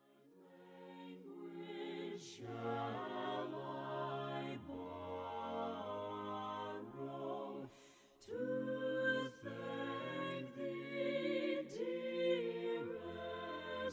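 Several voices singing a slow hymn a cappella, fading in over the first couple of seconds, with a short break between phrases about eight seconds in.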